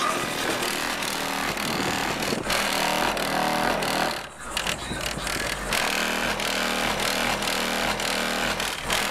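Hip-hop bass from a car-audio subwoofer in a ported box, played loud inside a truck cab and heard as a distorted, buzzing rumble. It drops out briefly about four seconds in.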